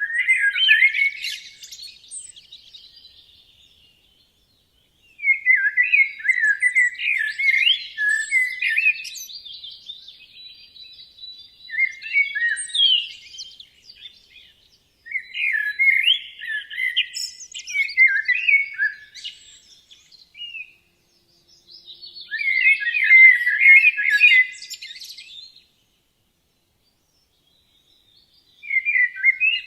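Songbird song: six bouts of quick, varied chirping notes, each a few seconds long, separated by short silent gaps.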